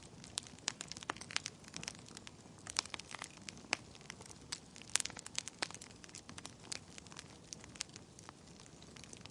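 Wood fire burning in a fireplace, with irregular sharp crackles and pops over a low steady rumble of flame; the loudest pop comes about five seconds in.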